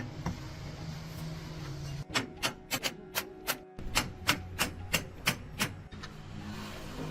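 Hammering: about a dozen sharp strikes at roughly three a second, over a low steady hum.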